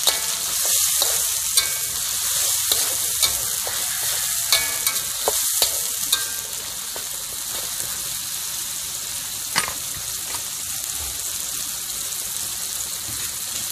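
Blended garlic, shallot, dried chili and lemongrass paste sizzling steadily in hot oil in an aluminium wok, with a metal spatula scraping and clinking against the pan through the first half. After that the sizzling carries on with just one more clink later.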